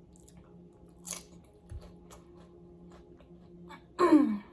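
Close-up chewing and crunching of nachos and tortilla chips, with scattered crisp crunches over a low steady hum. About four seconds in there is a short, loud voiced sound that falls in pitch.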